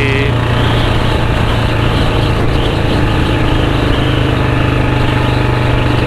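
Royal Enfield Standard 350's single-cylinder engine running steadily through a loud, open C-bend long Punjab aftermarket exhaust, with a deep, even exhaust note and no revving.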